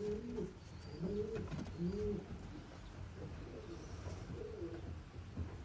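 Racing pigeons cooing: a run of low coos that rise and fall in pitch, about two a second, thinning out about two seconds in, with fainter coos later on.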